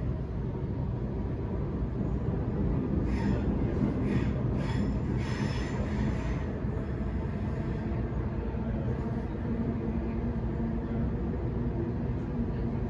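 Sydney Trains Waratah A-set electric train heard from inside the carriage while running: a steady low rumble of wheels on track, with bursts of high wheel squeal about three to six seconds in.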